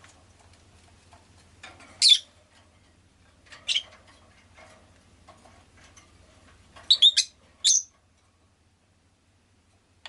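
Rosy-faced lovebird giving short, sharp, high-pitched chirps: single calls about two and four seconds in and a quick cluster around seven seconds, with softer chatter between. The calling stops just before eight seconds.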